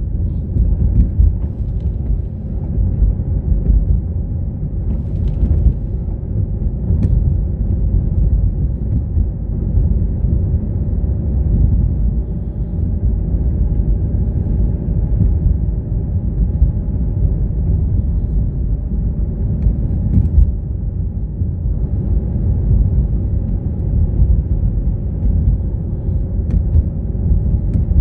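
A car being driven: a steady low rumble of engine and road noise, with a few faint clicks.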